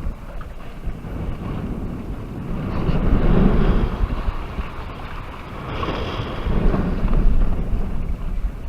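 Wind buffeting the microphone aboard a sailboat under way, swelling twice, over the rush of water along the hull.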